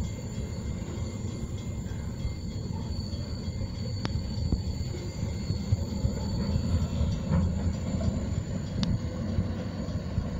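Herzog rail-train flatcars loaded with long welded rail rolling past, a steady low rumble of wheels on the track. A faint high wheel squeal holds throughout, with two sharp clanks, about four seconds in and near nine seconds.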